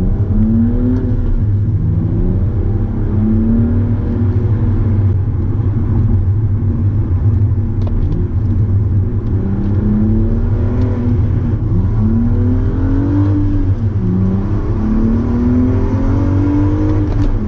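Exhaust of a BMW M235i's turbocharged straight-six with the muffler and resonator deleted, running hard over a steady low drone. Its pitch rises over a second or so, falls back, and rises again several times, as when the car pulls through the gears.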